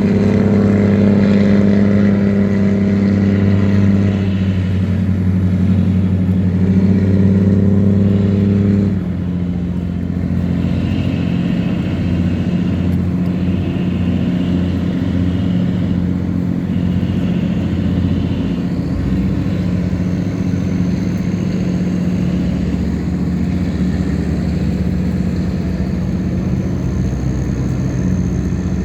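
Tugboat's diesel engine running steadily while towing a barge. It eases off and becomes somewhat quieter about nine seconds in.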